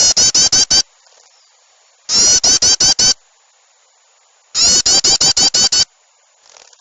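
Looped bird-lure recording of an agitated bird call: three bursts of rapid, harsh chattering notes, five to seven notes a burst and each burst about a second long, with short quiet gaps between.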